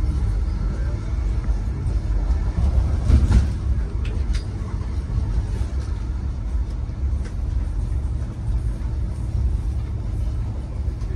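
Steady low rumble of a Great Western Railway Castle-set HST running at speed, heard from inside the coach: wheels on rail with the carriage's body noise. A few sharp clicks and knocks come through, the loudest about three seconds in.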